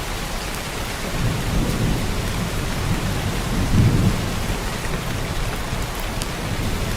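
Heavy downpour of rain, a steady hiss. Under it a low rumble of distant thunder builds from about a second in and swells loudest around four seconds.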